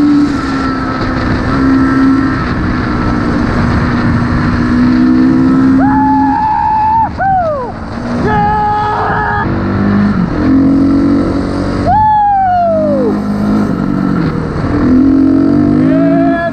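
Motorcycle engine running steadily, revved up twice, about six seconds in and again about twelve seconds in, its pitch falling away sharply each time the throttle closes.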